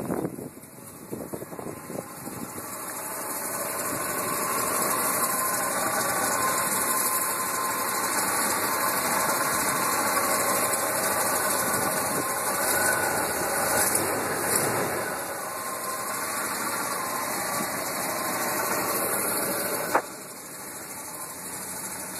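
Truck engine cranking and catching in the first couple of seconds, then running steadily at raised revs. A sharp click about twenty seconds in, after which it settles to a quieter idle.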